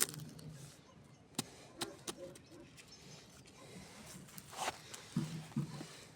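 Campfire crackling, with scattered sharp pops and snaps and a brief hiss about four and a half seconds in.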